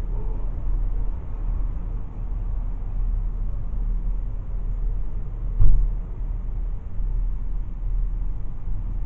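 Steady low rumble of road and engine noise inside a moving car's cabin, with a single sharp thump a little past halfway through.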